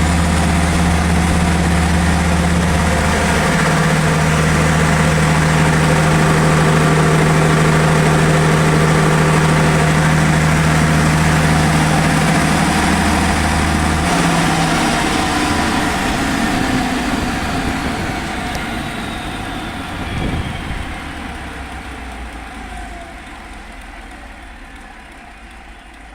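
Diesel generator running steadily, then shut off about 14 seconds in: the engine hum stops and a whine falls in pitch as the machine spins down, the sound fading away.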